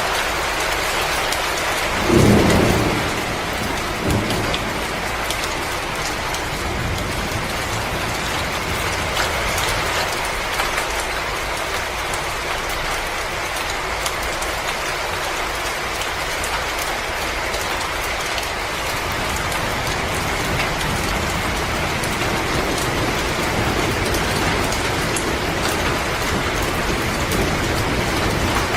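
Wood fire crackling in a fireplace: a steady hiss dotted with small pops and crackles. A low thump about two seconds in is the loudest moment, with a softer one about two seconds later.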